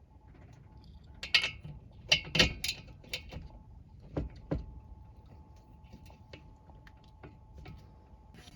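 Irregular sharp clicks and knocks of small metal parts and tools being handled, loudest in a cluster between one and three seconds in, over a faint steady hum.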